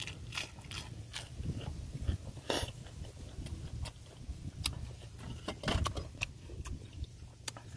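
Close-up chewing of a mouthful of lettuce-wrapped food, with irregular crisp crunches and wet mouth clicks and smacks.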